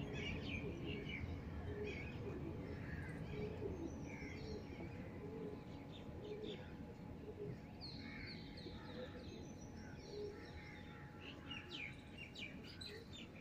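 Small birds chirping, many short high calls scattered throughout, over a low steady background rumble.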